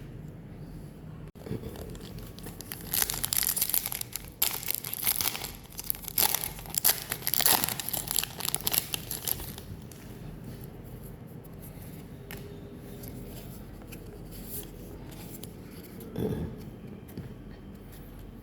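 Foil wrapper of a Pokémon card booster pack being torn open and crinkled in a run of crackly rustling lasting about seven seconds, followed by quieter handling and a soft thump near the end.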